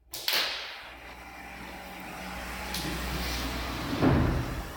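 Scraping and shuffling as gym equipment is moved about, with a low rumble and a heavy thud about four seconds in.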